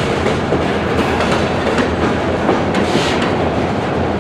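Freight cars rolling along yard track during switching: a steady rumble, with wheels clicking over rail joints.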